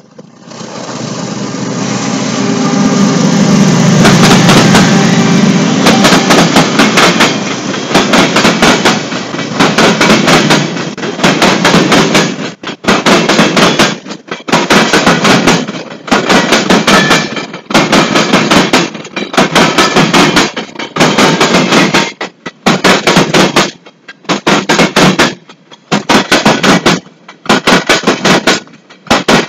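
Union Pacific diesel freight locomotive passing close, its engine loudest about four seconds in. It is followed by a string of empty gravel gondola cars rolling by, their wheels clattering over the rail joints in sharp bursts about once a second.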